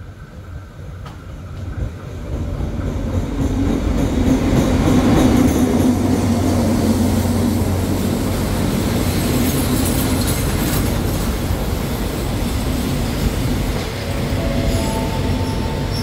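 Diesel-hauled passenger train pulling into the platform. The locomotive's engine swells in as it passes close, then the coaches roll by with wheels clattering over the rails. Thin squealing tones from the wheels start near the end as the train slows.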